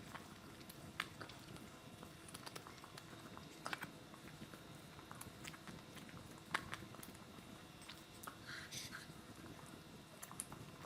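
Close-miked eating sounds: chewing and biting, with scattered sharp wet clicks and a brief slurp-like hiss near the end.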